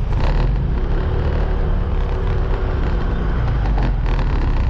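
Motor scooter being ridden along a road: steady engine and road noise under a heavy low rumble.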